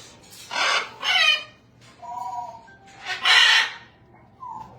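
Parrots squawking: a few loud, harsh calls and screeches, one or two with a falling pitch.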